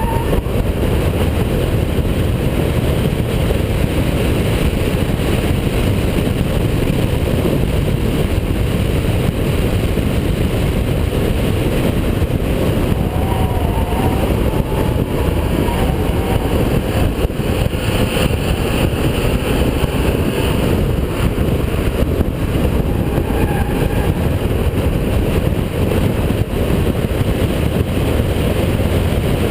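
Holden VP Commodore's 3.8-litre V6 engine running hard on a race track, a loud steady roar mixed with heavy wind and road noise.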